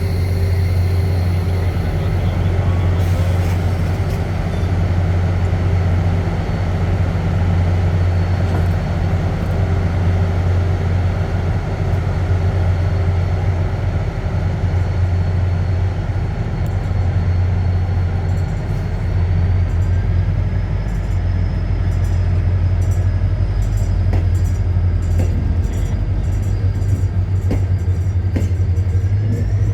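A train running, with a steady loud low drone. In the last third there is a quick run of short clicks, and a faint tone rises near the end.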